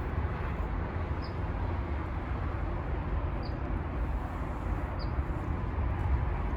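Steady low outdoor background rumble with three short, faint high chirps about two seconds apart.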